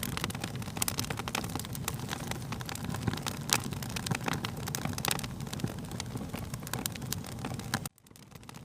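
Wood fire crackling, with dense irregular pops and snaps over a low rumble. About 8 seconds in the sound cuts out abruptly and fades back in, as at a loop or edit join.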